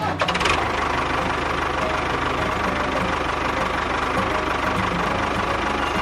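An engine running steadily with a fast, even chugging beat, the sound of a small tractor engine ticking over.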